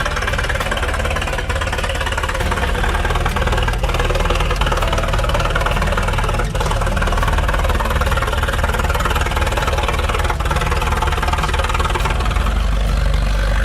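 Engine of an old Allis-Chalmers Model U farm tractor running steadily.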